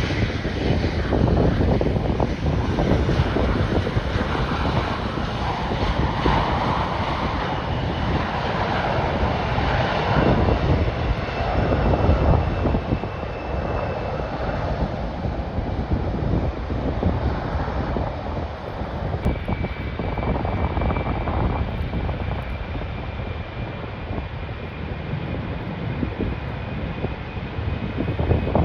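Airliner engines running steadily, a continuous rumble with a faint whine. A second thin whine comes in about two-thirds of the way through and rises slightly in pitch.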